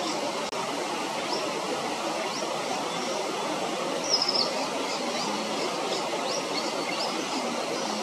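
Steady rushing background noise with scattered short, high chirps of small birds. There is one brief, louder chirping trill about four seconds in.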